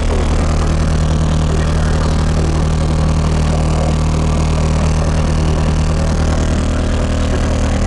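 Six 15-inch Pride S15 subwoofers playing a steady, very loud low bass tone, with a noisy buzz over it.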